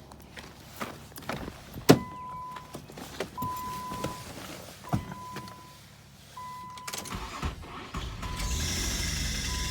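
A 2000 Infiniti i30's warning chime beeping over and over at one steady pitch, with a few knocks and clicks around it. About eight seconds in, the 3.0-litre V6 starts and settles into a steady run.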